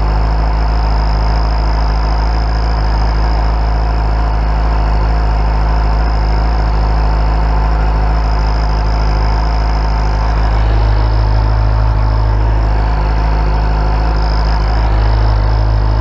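Suzuki GSX-R 750's inline-four engine idling steadily through its exhaust, with a faint, steady high-pitched whistle from a novelty turbo whistle fitted in the exhaust tip.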